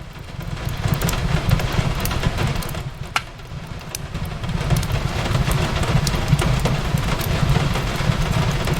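Wood fire in a fireplace crackling with scattered sharp pops, one louder pop about three seconds in, over a low steady rumble, mixed with the steady hiss of rain on a window.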